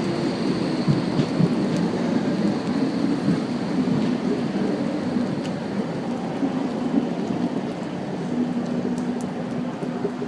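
Docklands Light Railway train running into the platform on its track, a steady dense rumble that slowly eases as it slows to a stop, with a faint motor hum near the end.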